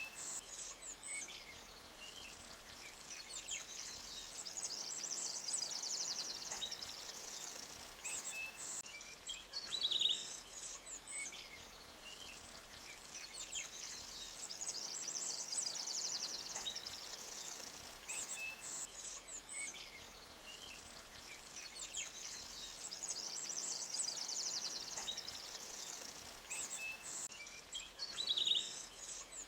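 Forest ambience: scattered bird chirps over a faint steady hiss, with a high, rapid trill that swells and fades about every ten seconds. Two brief, louder chirps stand out, about ten seconds in and near the end.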